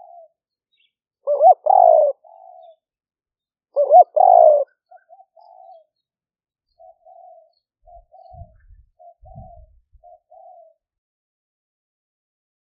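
Spotted dove cooing: two loud, full coo phrases about one and a half and four seconds in, followed by a string of soft, short coos. A couple of faint low thumps come in around eight to nine seconds.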